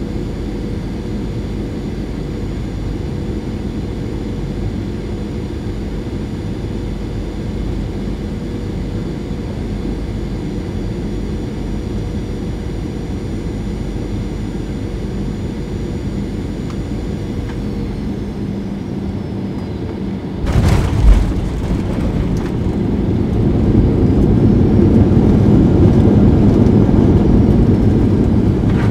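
Cabin noise of a Boeing 737-800 with CFM56 engines on final approach: a steady rush with a high engine whine that drops in pitch as thrust comes back. About 20 seconds in there is a sudden thump of touchdown, then a louder low roar builds as reverse thrust and braking slow the aircraft.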